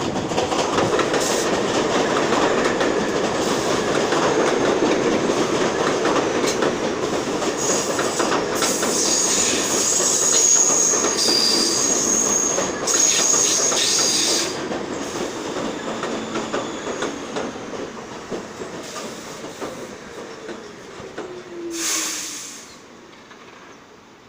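R46 subway train rolling through the station with loud wheel noise and high-pitched wheel squeal that stops about halfway through. The noise then fades as the train slows, with a falling whine, and ends in a short burst of air hiss as it comes to a stop.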